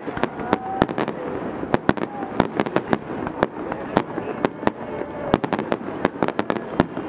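Fireworks display: shells bursting in a dense, irregular run of sharp bangs, several a second, over a continuous noisy background.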